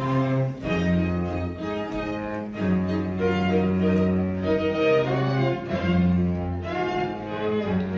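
Bowed string ensemble music, violin and cello, playing a melody over held bass notes that change about once a second.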